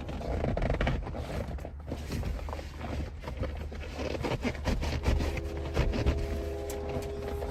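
Fabric and plastic rustling and scraping as car seat covers are worked into place, over a steady low rumble. A humming tone comes in about five seconds in.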